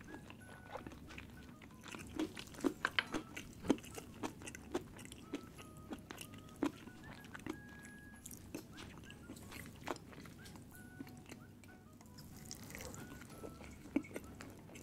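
Close-miked chewing and mouth sounds of someone eating, with irregular wet clicks and smacks.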